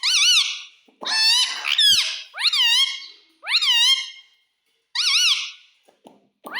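Pet parrot calling: about six short, high-pitched calls in a row, each sliding up and wavering in pitch.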